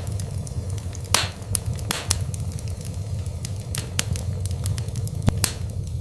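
Wood fire burning in a fireplace: irregular crackles and sharp pops, a couple of them louder, over a steady low rumble of the flames.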